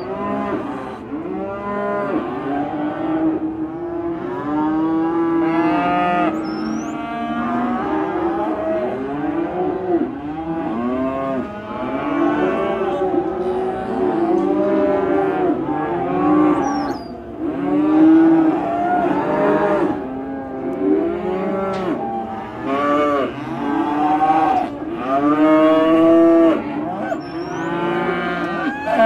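A herd of cattle mooing continuously, many calls overlapping one another with no pause.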